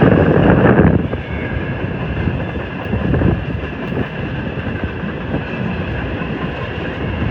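Empty coal hopper cars of a CSX freight train rolling past on the rails: a steady wheel-and-rail rumble with a faint high ringing, loudest in the first second and swelling again about three seconds in.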